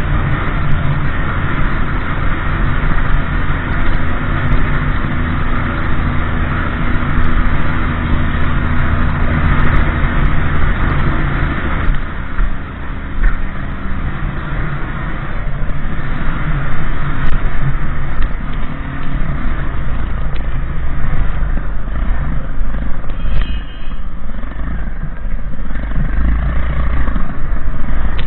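Motorbike engine running while riding, with low wind rumble on the microphone. The engine's steady note is clearest in the first half, after which the low wind rumble takes over.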